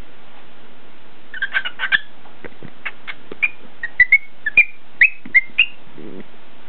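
Cockatiel whistling and chirping a quick run of about a dozen short, sharp notes, several of them rising in pitch, beginning about a second and a half in and stopping near the end.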